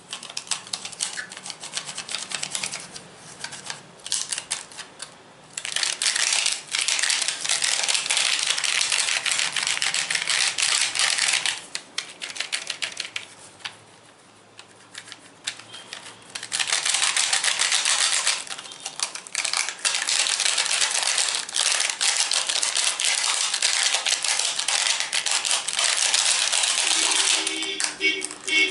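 Rapid, dense tapping and clicking close to the microphone, an ASMR trigger, in two long loud runs with a few seconds of quieter, sparser clicks between them. A short ringing note sounds near the end.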